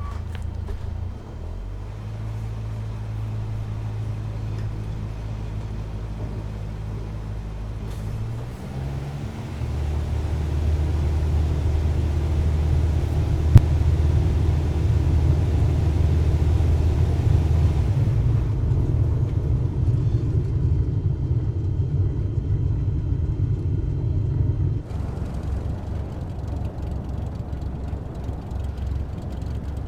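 Cessna 172's piston engine and propeller running at taxi power, a steady low drone. About nine seconds in the engine speed rises and it runs louder, easing back somewhat later on and again about 25 seconds in. A single sharp click comes about halfway through.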